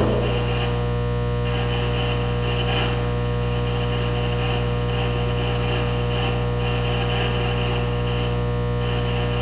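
Steady electrical mains hum and buzz with a fixed mid-pitched tone, overlaid by a faint hiss that switches on and off every second or so.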